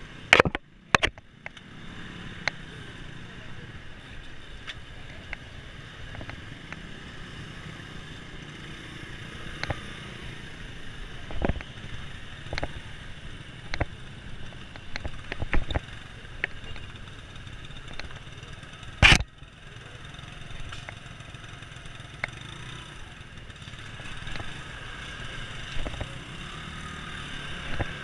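Street traffic with motorcycles running close by, under a steady background noise. Scattered sharp knocks and clicks run through it, the loudest about a second in and again about 19 seconds in.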